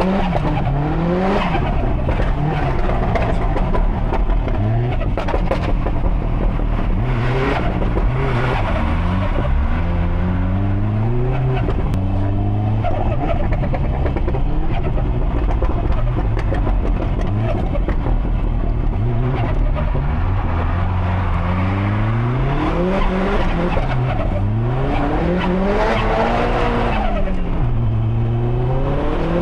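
Subaru Impreza STI's built, big-turbo EJ257 turbocharged flat-four engine, driven hard: its note climbs and falls again and again as the car accelerates, shifts and lifts off.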